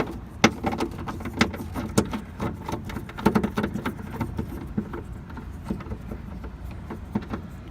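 10 mm deep socket and wrench loosening the small nuts on the license plate lamp assembly: a run of irregular metallic clicks, several a second, over a steady low rumble.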